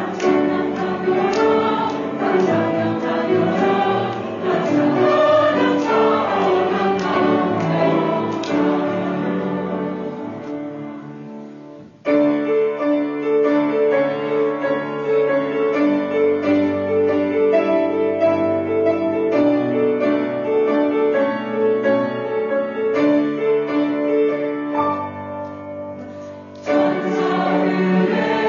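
Church choir singing a Christmas hymn with piano accompaniment. About twelve seconds in the music fades and a new passage starts abruptly, with another sudden change near the end.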